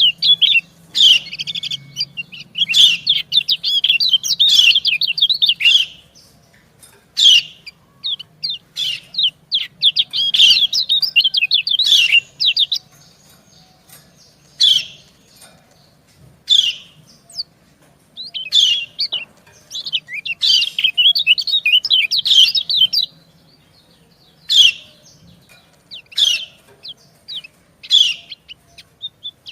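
Yellow white-eyes (kecial kuning) calling: bursts of rapid, high twittering alternate with single short, sharp chirps a second or two apart. These are the females' 'ciak' call notes answering the males' song.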